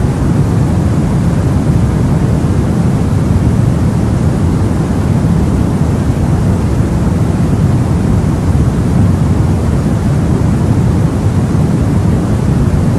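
Steady, unchanging white noise for baby sleep, heavier in the low end than in the highs.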